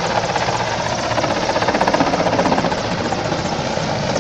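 Helicopter in flight: a rapid, steady beating of the rotor blades over continuous engine noise.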